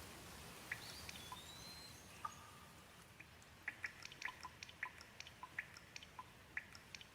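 Gentle rain: a soft steady hiss with scattered drops dripping, the drips coming thicker and faster in the second half. A faint high whistling note is heard briefly about a second in.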